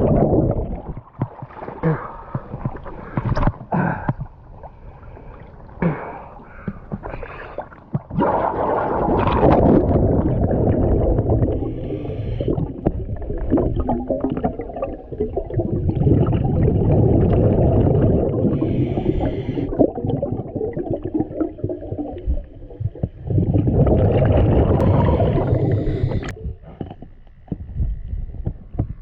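Scuba diver breathing through a regulator underwater: quieter inhales alternating with long gurgling rushes of exhaled bubbles, each lasting several seconds.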